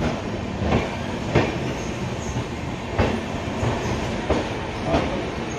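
Express passenger train running at speed: a steady rumble from the coach with a sharp click of wheels over rail joints every second or so.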